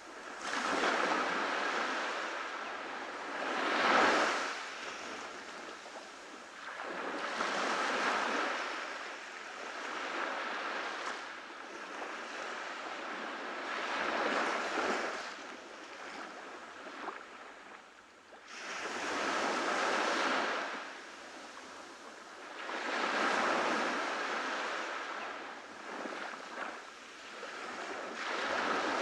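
Ocean waves breaking and washing up a beach, the surf swelling and fading about every three to five seconds.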